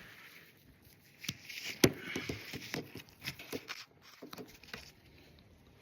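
Tools and parts being handled during motorcycle engine work: scattered clicks and knocks with some rustling, the sharpest knock a little under two seconds in.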